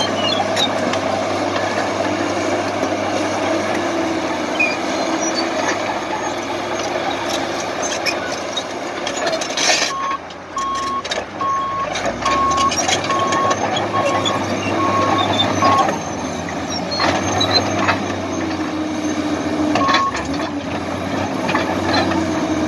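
A heavy vehicle's engine running steadily. About ten seconds in, a run of roughly eight evenly spaced single-tone beeps sounds over about six seconds, like a reversing alarm, and one more beep comes a few seconds later.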